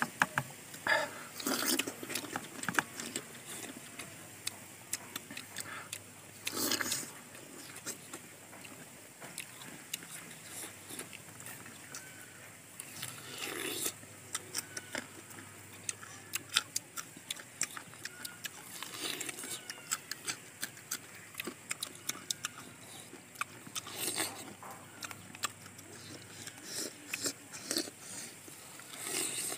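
Close-up eating of raw star fruit: wet crunching bites, chewing and mouth clicks, with a louder bite every few seconds.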